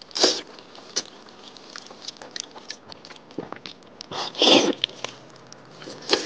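Wet chewing and biting of soft, sticky red-braised pork fat (jiguan you), with small mouth clicks throughout. Louder bursts of eating noise come just after the start and again about four and a half seconds in.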